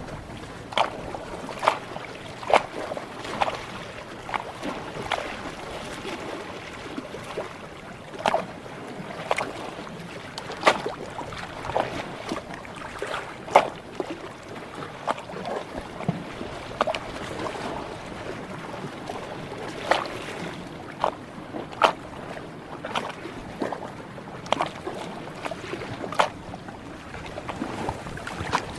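Ocean water lapping and splashing: a steady wash broken by many irregular, sharp little slaps and splashes.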